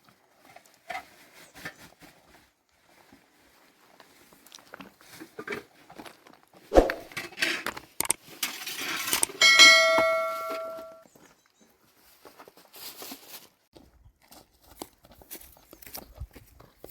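Dishes being handled: scattered knocks and clatter, a sharp knock about seven seconds in, then a few seconds of rushing, scraping noise. A struck vessel rings briefly at a steady pitch near ten seconds.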